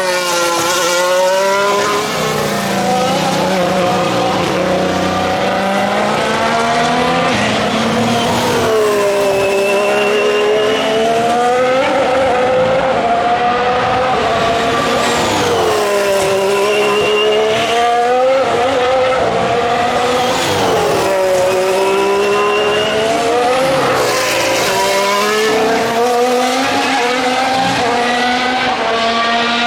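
2019 Formula 1 cars' 1.6-litre turbocharged V6 hybrid engines braking, downshifting and accelerating out of a chicane one after another. Engine pitch drops and climbs again every few seconds as each car passes.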